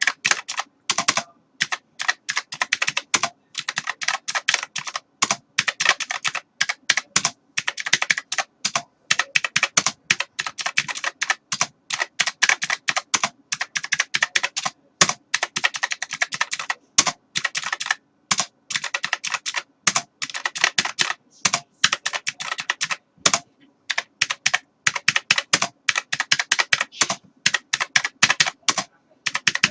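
Typing on a computer keyboard: rapid runs of key clicks with brief pauses between bursts.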